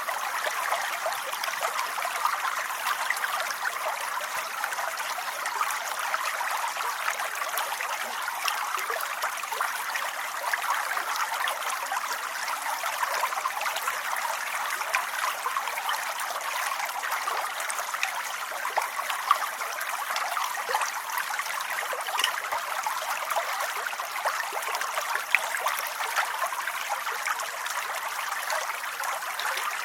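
Steady rain, a dense, even patter of countless small drops with no thunder or rumble beneath it.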